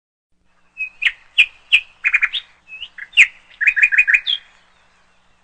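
A small bird chirping: a string of short, sharp chirps beginning about a second in, some coming in quick runs of four or five, stopping shortly before the end.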